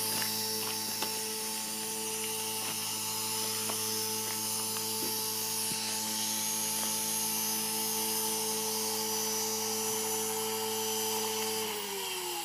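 Align T-Rex 450 Pro electric RC helicopter running at a steady governed headspeed, its rotor giving an even hum with motor whine. Near the end the motor is cut and the pitch falls as the rotor spools down.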